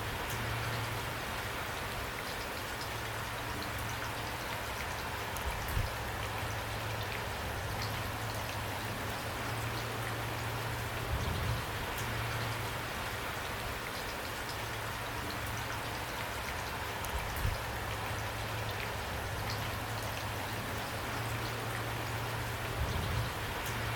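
Steady rain falling on a surface, with a few brief low thuds now and then.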